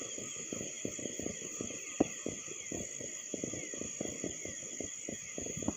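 Distant fireworks crackling and popping in a dense, irregular rattle, with two sharper bangs about two seconds in and near the end. Crickets chirr steadily underneath.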